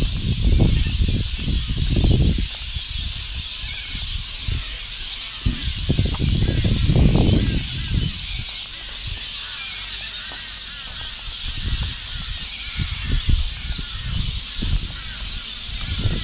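Many birds calling together in a steady chorus of short chirps and honking calls, with irregular gusts of wind buffeting the microphone.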